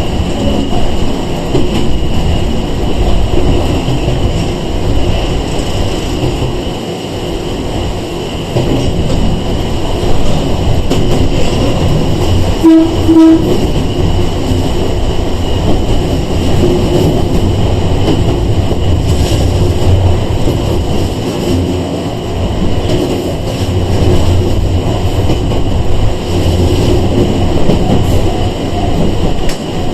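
Cabin sound of a Sangi Railway 101-series (ex-Seibu 401-series) electric train running: steady motor and wheel rumble with rail-joint clicks. About halfway through, two short toots of the train's horn.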